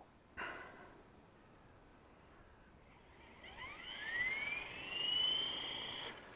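WLtoys V950 RC helicopter's brushless motor and rotor spooling up: a whine that climbs in pitch over about two seconds, levels off, then stops abruptly near the end. A brief noise comes about half a second in.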